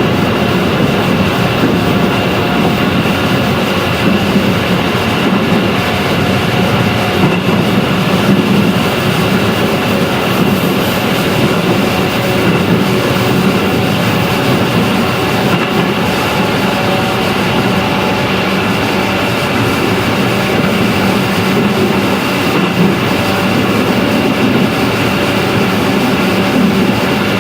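JR 211 series electric train running at steady speed, heard from inside the passenger car: an even rumble of wheels on rails with a faint steady whine from the running gear.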